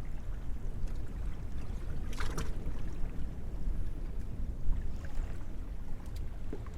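A small boat drifting at sea: a steady low rumble of wind on the microphone and water against the hull, with faint clicks and one short, sharp noise about two seconds in.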